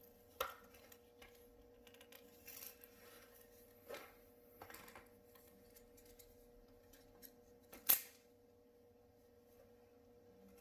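Handling of a plastic vacuum cleaner wand and its packaging: scattered light rustles and plastic clicks, with one sharper click about eight seconds in.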